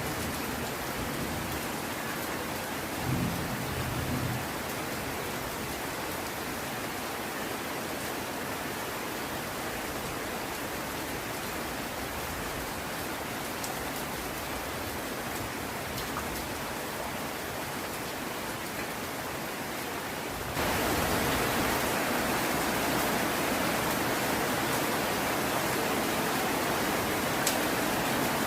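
Heavy rain falling steadily, with a short low rumble of thunder about three seconds in. About two-thirds of the way through the rain suddenly gets louder and denser.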